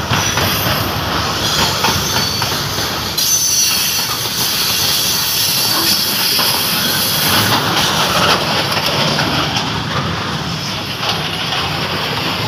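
A freight train of loaded hopper wagons rolling past close by, its wheels running and clattering on the rails. A high squeal of wheels on rail is strongest from about three to seven seconds in.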